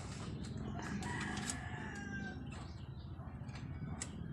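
A rooster crowing once in the background, a drawn-out call starting about a second in, with a few faint handling clicks.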